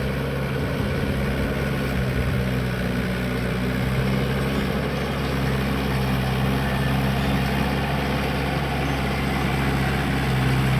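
Mahindra 585 tractor's diesel engine running at a steady, even speed.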